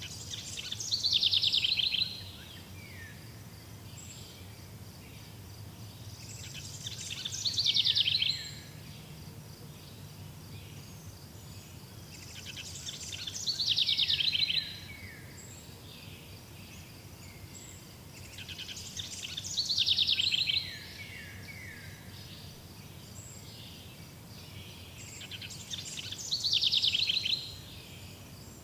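A songbird repeating the same song about every six seconds, five times in all. Each song lasts about two seconds, a fast high trill that ends in a few falling notes, over steady outdoor background noise.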